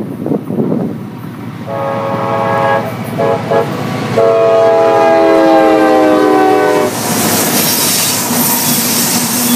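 Diesel locomotive air horn sounding a long blast, two short blasts, then a long blast whose pitch drops as the locomotive passes. The train then rolls by close with loud wheel and rail noise.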